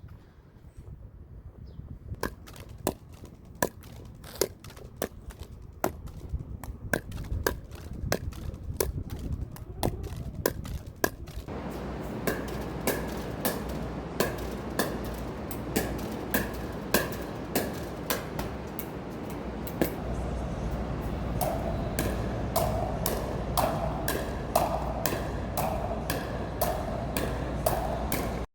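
Rapid, steady sharp hits of a pickleball paddle and ball against a pickleball rebounder, about two to three hits a second, starting about two seconds in, over a steady background noise that grows louder about halfway through.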